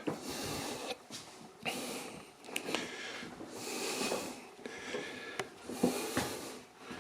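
A person breathing close to the microphone, each breath a soft hiss that comes and goes every couple of seconds, with a few light clicks and knocks in between.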